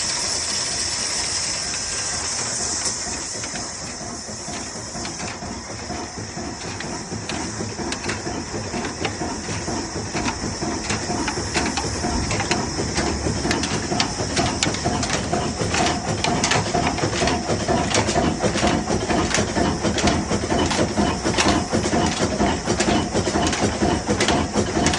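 A hiss for the first few seconds, then a diesel engine on a cold start, its rhythmic knocking building up and settling into a steady, louder run.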